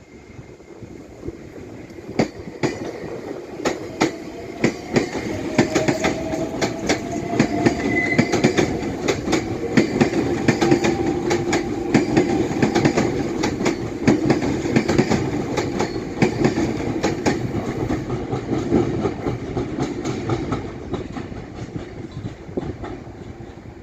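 Meitetsu electric train moving through Toyotashi Station past the platform. Its wheels clack over rail joints in quick, uneven clicks, with a faint rising motor whine early on. It grows louder, stays loud for a while, then fades.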